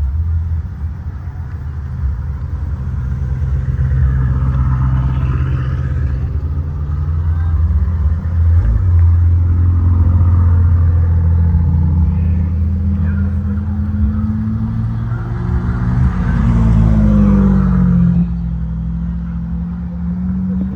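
Drag-racing motorcycle engines running with a low, steady drone. In the second half the revs rise and fall several times.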